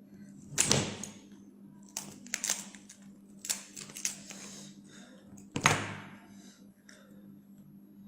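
A king crab leg being cracked and eaten: a series of sharp cracks and clicks, the two loudest about half a second in and a little before six seconds, with a faint steady hum underneath.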